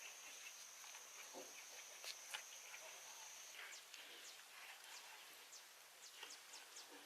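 Near silence: faint outdoor ambience with a steady thin high tone that stops about halfway, and scattered faint clicks and ticks.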